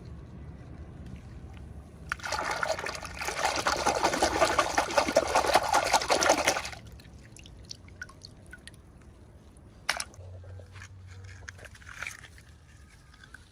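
Liquid poured in a small stream for about four and a half seconds, starting about two seconds in, followed by a few light clicks and taps.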